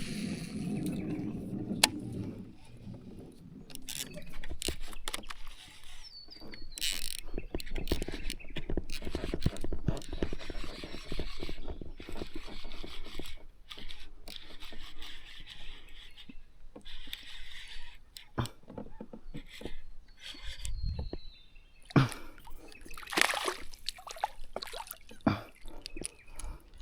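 Water splashing and knocks and scrapes on a kayak hull as a hooked fish is fought and brought aboard, in an irregular run of bumps and clicks.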